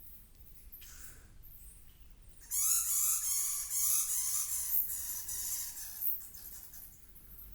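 A harsh, rasping animal call that starts suddenly about two and a half seconds in and lasts about three and a half seconds, made of quick repeated pitch bends.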